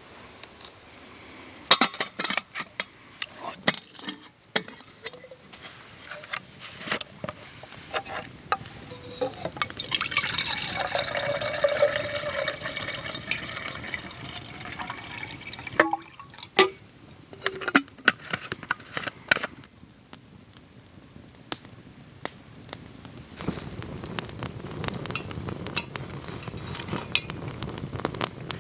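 Camp cookware and utensils clinking and clattering, with liquid being poured for several seconds around the middle. Near the end, a steady crackle takes over.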